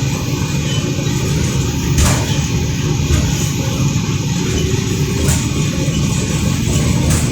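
Cabin noise of a moving Morgantown PRT car, a rubber-tyred electric people-mover on its guideway: a steady low rumble with sharp knocks about two seconds in, past five seconds and near the end.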